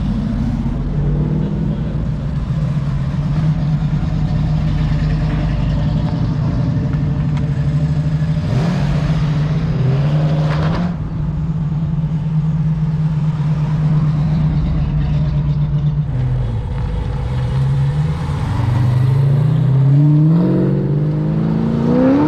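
Car engine running at low revs as the car pulls away, with a short rise in revs about nine seconds in and a longer, rising rev as it accelerates near the end.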